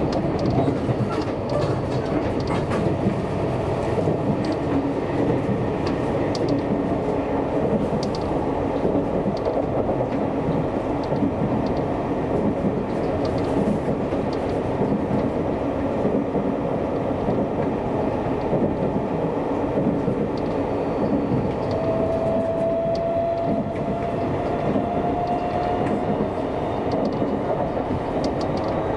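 Seibu Railway electric commuter train running on the line, with a steady rumble of wheels on rail and occasional clicks over rail joints. A faint motor whine rises slowly in pitch in the second half.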